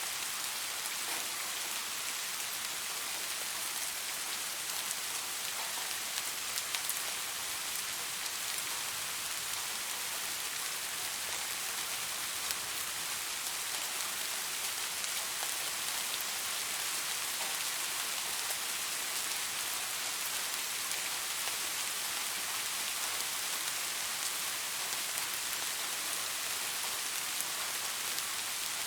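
Steady rain falling on leaves: an even hiss with fine, scattered drop ticks.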